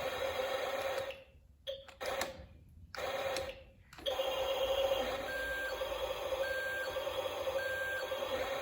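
Remote-control toy truck running with a steady electric hum that cuts out a few times, then three short high electronic beeps about a second apart.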